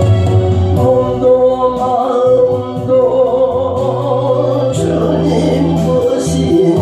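A man singing a Korean gospel praise song with long held notes over a musical accompaniment with a steady bass line.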